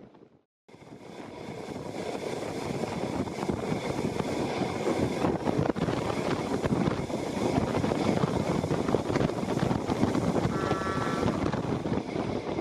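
Train running at speed: a steady rumble of wheels and rushing air with wind buffeting the microphone, swelling over the first few seconds and then holding. A brief, thin high tone sounds near the end.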